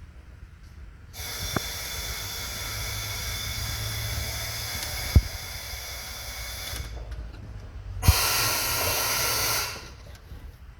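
Two long hissing bursts, the first about five and a half seconds and the second about a second and a half, with sharp clicks, one near the start of each.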